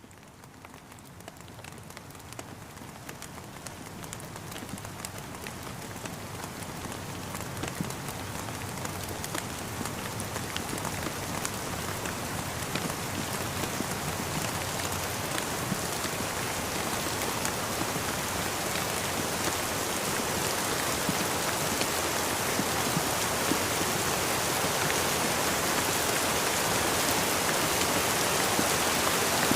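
Rain falling, a dense hiss of countless small drop ticks, fading in from faint and growing steadily louder throughout.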